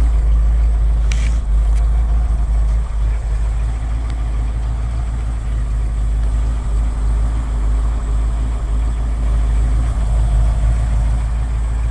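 A 1980 Ford F100's 302 small-block V8 with a two-barrel carburetor idling steadily.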